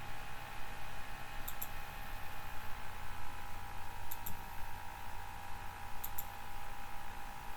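Computer mouse clicking: three quick double-clicks about two seconds apart, over a steady electrical hum.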